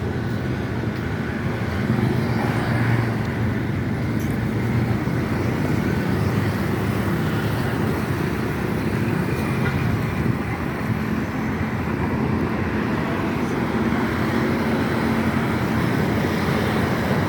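Steady road traffic noise: vehicle engines running with a continuous low rumble and tyre noise.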